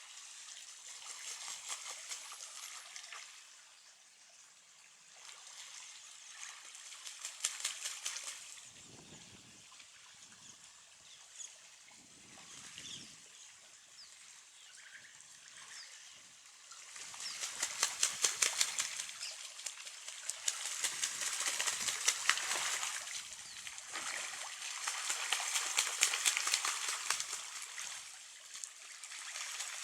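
Outdoor nature sound: a crackling hiss that swells and fades in waves, louder in the second half, with a few faint bird chirps.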